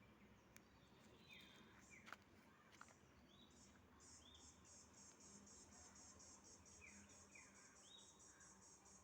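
Faint outdoor ambience of birds giving short, falling whistled calls, several times. From about four seconds in, a high, evenly pulsing trill joins them at about four pulses a second, with a couple of faint clicks early on.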